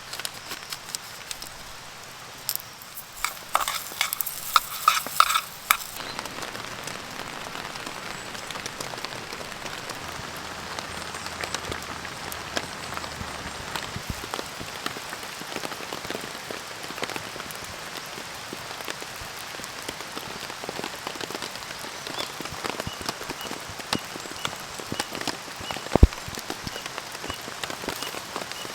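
Rain pattering steadily, beginning abruptly a few seconds in after some light clinks. A single sharp knock near the end is the loudest sound.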